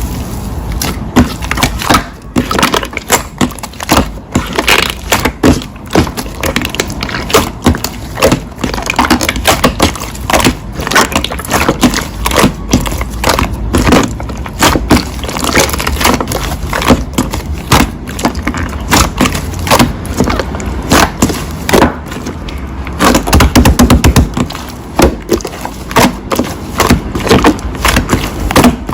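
Slime being squeezed, poked and stretched by hand, making a dense, irregular run of crackling clicks and squelches.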